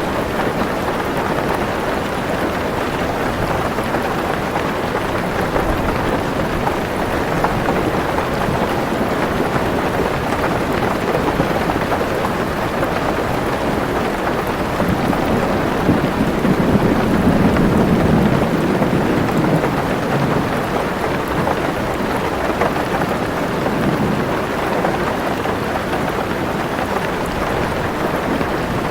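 Heavy rain falling steadily on a car roof, heard from inside the car, with a low roll of thunder that swells and fades about halfway through.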